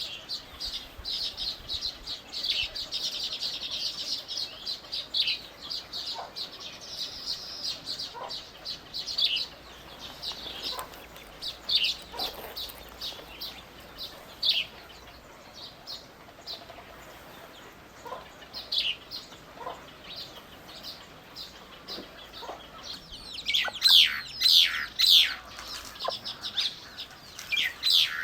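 Small birds chirping and calling: a dense run of high chirps at first, scattered single calls through the middle, then a burst of loud, quick down-slurred calls near the end.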